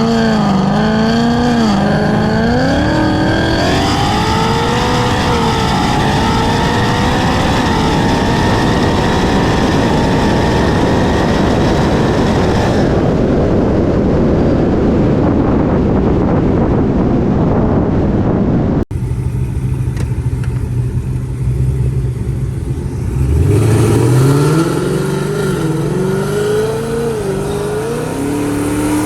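Supercharged Ford Mustang GT V8 at full throttle in a roll race, engine pitch climbing and dropping back at each automatic upshift through several gears. After a cut it runs steady and low for a few seconds, then pulls hard again through more upshifts near the end.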